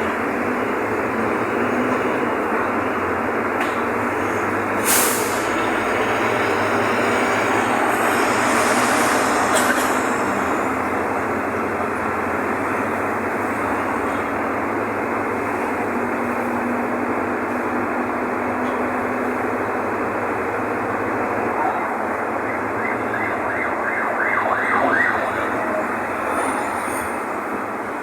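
Mercedes-Benz OF-1519 city bus heard from inside the cabin while under way: its diesel engine and road noise running steadily. There is a sharp click about five seconds in and a short run of rapid rattling ticks near the end.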